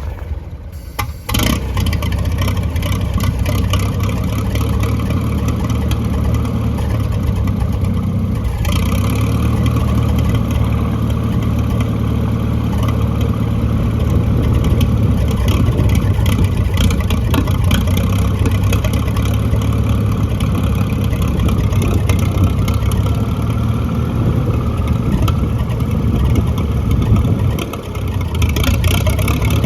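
Massey-Harris 44 tractor engine running steadily. It comes up sharply in level about a second in and dips briefly near the end.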